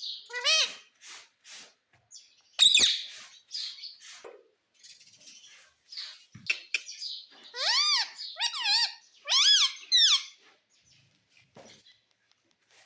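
Pet ringneck parrot calling in short rising-and-falling squawks, with a sharp loud call about two and a half seconds in and a quick run of calls between about eight and ten seconds.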